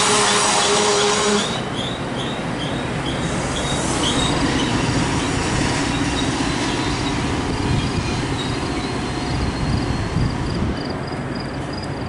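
Metra stainless-steel bilevel passenger cars rolling slowly past as the train brakes to a stop at a station: a steady rumble of wheels on rail with short, repeated high squeals from the wheels and brakes. The sound eases slightly a second or two in.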